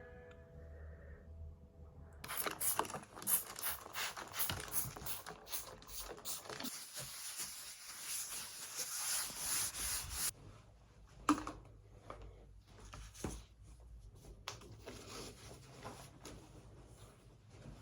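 Close handling noise: a run of rubbing and scraping from about two seconds in until about ten seconds, then scattered clicks and light taps.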